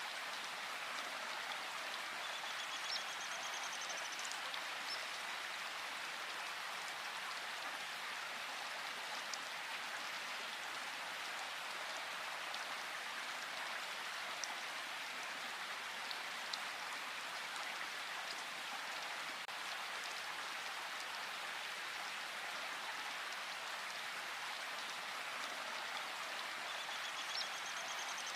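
Steady rain falling in a forest, with faint high bird chirps a few seconds in and again near the end.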